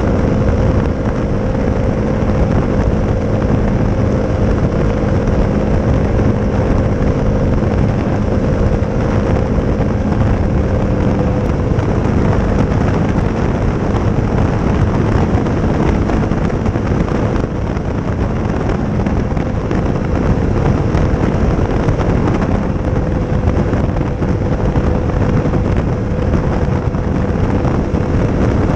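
Honda CRF250's single-cylinder four-stroke engine running through a Leo Vince aftermarket exhaust while riding at a fairly steady speed, with wind rushing over the microphone.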